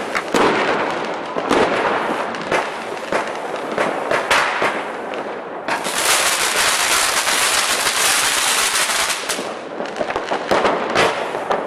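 Firecrackers going off in rapid succession, a steady crackle of many sharp pops. From about six seconds in to about nine seconds the crackling grows denser and hissing, then thins back to scattered pops.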